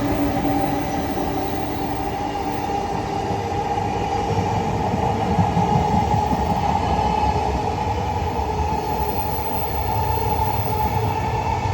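EF510-hauled freight train passing at speed, its wagons rolling by in a steady rumble with a faint steady ringing tone over it.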